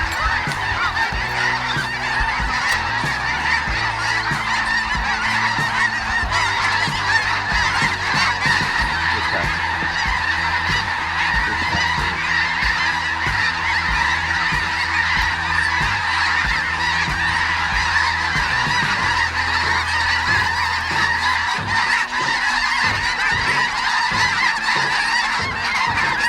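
Large flock of snow geese calling continuously, a dense din of many overlapping honks with no break.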